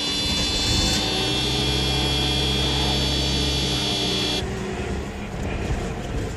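1988 Mercedes 300E being started with the key: a steady electronic warning buzzer sounds while the engine is cranked and turns over. Both cut off about four seconds in, leaving an uneven, rough-running engine. The car is struggling to start and keep running, which the mechanic thinks may be from being low on fuel.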